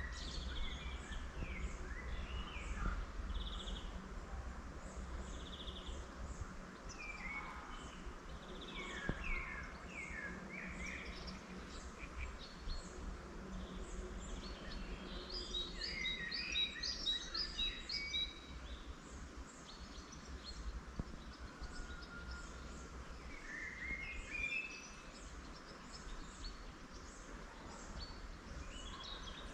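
Several wild songbirds singing in bursts of quick, high chirping notes, some phrases overlapping, over a steady low rumble of background noise.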